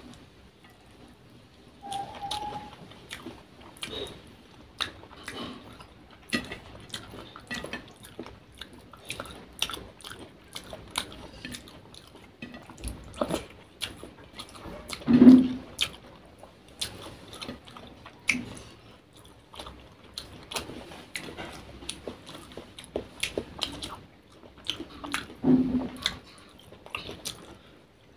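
Close-miked chewing and lip-smacking of a person eating rice and fish by hand, with many small wet clicks, and fingers working rice on the plate. A louder low sound comes about halfway through and again near the end.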